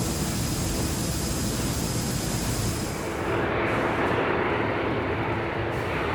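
Steady, loud rushing noise of a military transport aircraft in flight. About three seconds in, the sound changes abruptly to a duller engine drone with a steady low hum.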